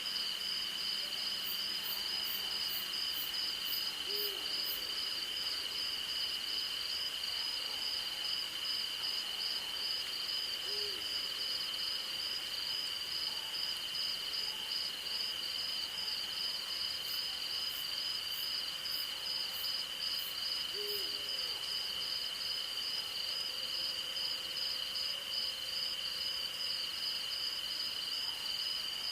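Night insect chorus: a steady high-pitched trill with a faster pulsing trill above it. An owl hoots three times, about ten seconds apart, and there are two short runs of faint, very high ticks.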